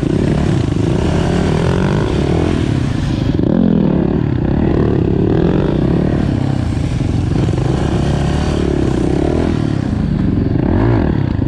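Supermoto motorcycle engine running hard, its pitch rising and falling over and over as the throttle is worked.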